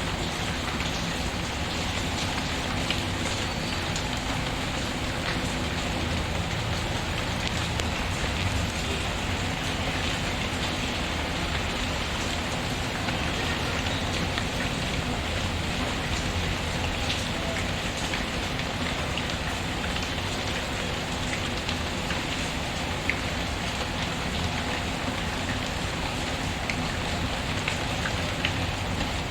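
Steady rain pattering, mixed with the scattered small crackles of a wood fire in a fireplace.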